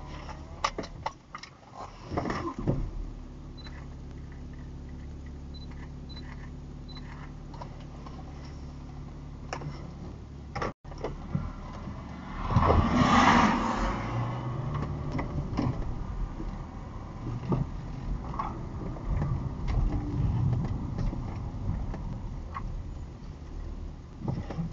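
Car engine heard from inside the cabin: a few clicks and knocks, then a steady idle. A little past halfway a loud rush of noise lasts about a second and a half, after which the engine sound rises and shifts as the car drives off.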